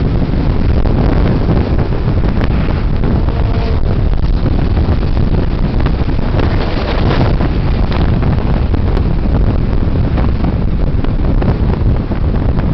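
Wind rushing over the microphone of a camera riding on a motorcycle at road speed: a steady, loud rumble and hiss.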